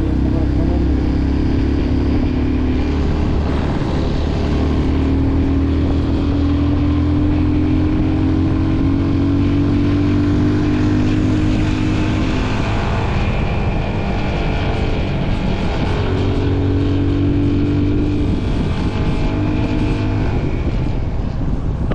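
Motorcycle engine running while riding, its pitch climbing slowly as the bike gathers speed, dropping back about halfway through, then climbing again.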